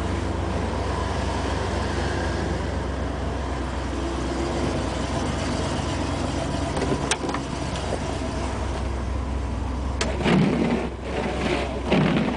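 Ford 351 Windsor V8 of a 1987 F350 idling steadily after a super cold start. A sharp click about seven seconds in, then two louder knocks around ten and twelve seconds in.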